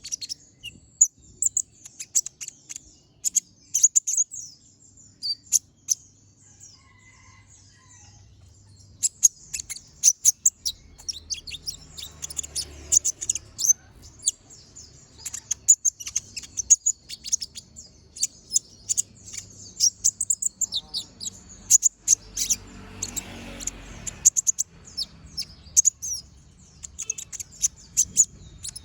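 Kolibri ninja sunbird singing continuously: a rapid run of sharp, very high chirps and short trills.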